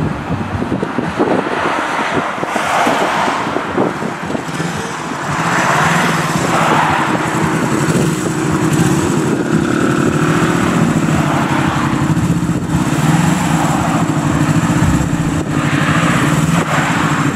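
Engines idling close by: a Mercedes C63 AMG's V8 and a motorcycle. There are a few louder throttle surges in the first several seconds, then a steady idle.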